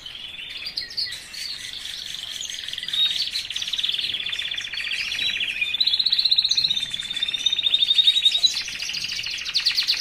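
Caged male songbird in full song: a long unbroken run of rapid trills, each phrase on a different pitch, with a louder, higher trill starting near the end.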